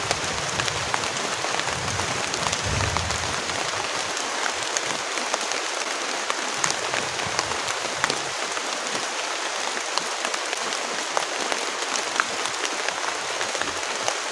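Heavy rain falling steadily: a dense, even hiss with many sharp individual drop hits.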